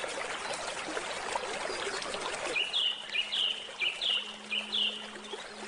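Stream water trickling and splashing, with a songbird repeating a short chirping call about four times in the second half. A faint low steady tone comes in about halfway.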